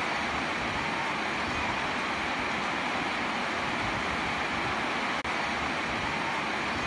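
Steady rain falling on a house roof, with water running off the roof edge: an even hiss of rainfall. The sound cuts out for an instant about five seconds in.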